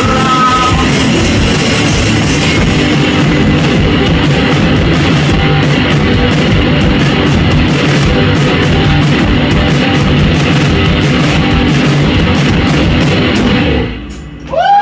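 Loud rock music with guitar and a drum kit keeping a steady beat, ending about a second before the end.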